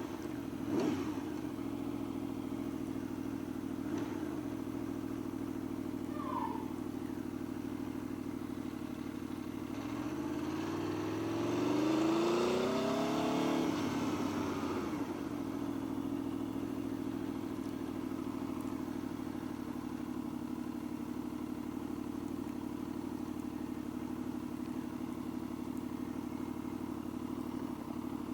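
Motorcycle engine running steadily at a low, even pitch. Between about ten and fifteen seconds in, the engine note rises and then falls away.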